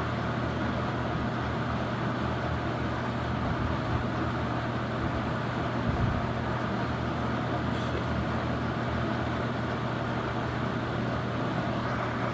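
Toastmaster 4435 20-inch box fan running on high speed: a steady rush of air from its plastic banana blades over a constant motor hum. It is a little loud, as plastic-blade fans typically are on high.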